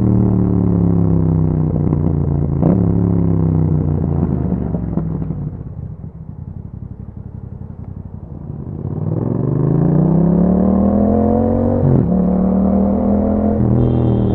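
2021 Yamaha MT-07's parallel-twin engine through an Akrapovič exhaust while riding. The revs fall as the bike slows, with a gear change about three seconds in, and sink to a quiet low burble in the middle. The engine then revs up again, with an upshift about twelve seconds in.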